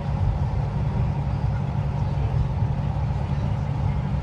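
Steady low rumble of a tractor-trailer's engine and road noise, heard from inside the cab while cruising on a highway.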